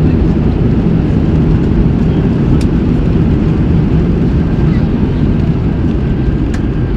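Airbus A320 landing: a loud, steady low rumble of aircraft noise.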